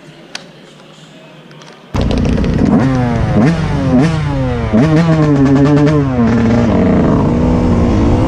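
Dirt bike engine revving hard, cutting in suddenly about two seconds in, its pitch climbing and dropping again and again as it accelerates through the gears.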